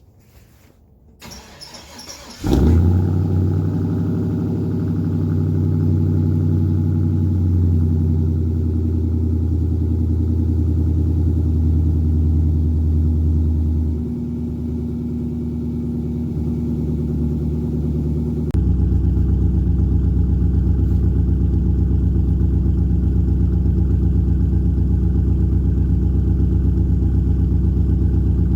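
Cold start of a GM LQ4 6.0-litre V8 with a Brian Tooley Racing stage 3 truck cam, breathing through shorty headers and a dual exhaust with Magnaflow mufflers. It cranks briefly, catches about two and a half seconds in and runs at a steady fast idle, which eases down near the middle. From about two thirds of the way in the idle turns louder and more pulsing, the lumpy idle of the big cam.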